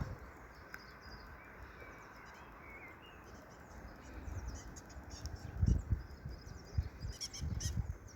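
Small birds chirping and calling outdoors, with a burst of quick high chirps near the end. Low rumbles come about six seconds in.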